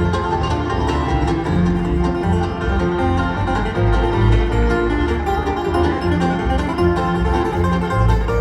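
Live acoustic bluegrass band playing an instrumental break, with plucked banjo and guitar over steady low notes.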